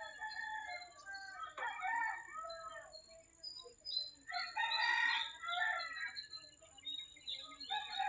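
Rooster crowing, two long crows a couple of seconds apart and a third starting near the end, with small birds chirping in the background.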